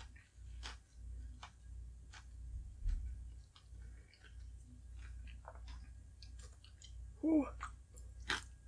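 Close-miked chewing of a mouthful of halo-halo shaved-ice dessert: scattered small mouth clicks and smacks, with a short hum from the eater about seven seconds in and a sharper click just after.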